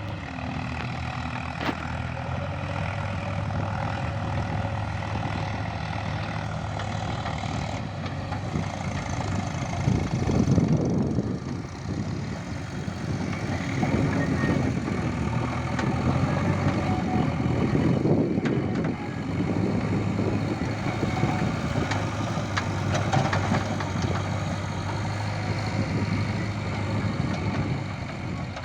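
Diesel engine of a JCB 3DX backhoe loader running steadily, rising in loudness and roughness several times as it comes under load, with the clatter of the machine working.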